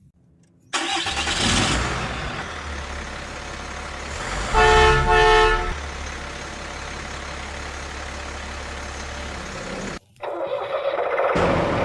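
A vehicle engine running steadily, with a horn honked twice about halfway through. The sound cuts off abruptly near the end and a different engine sound starts.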